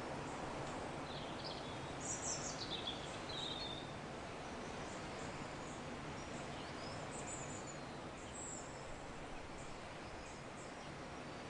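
Nature soundscape: a steady soft background hiss with small birds chirping, a cluster of quick high calls between about one and four seconds in and a few more around seven to eight seconds.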